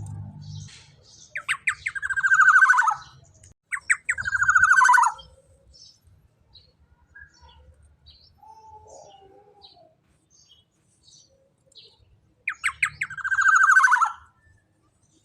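Black-naped oriole (kepodang emas) calling three times. Each time it gives a few quick short notes and then a loud, harsh falling call. Faint chips sound between the calls.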